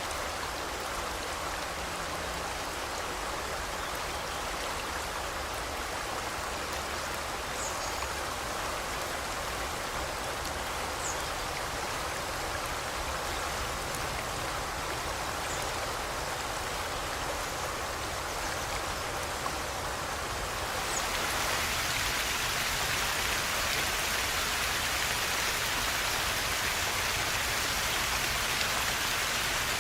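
River water flowing in a steady rush. About 21 s in, the rush turns brighter and a little louder. A few faint, short bird chirps sound in the first part.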